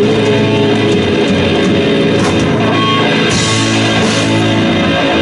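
A live student band playing loud rock-style music, with guitar, drums and keyboard sustaining full chords.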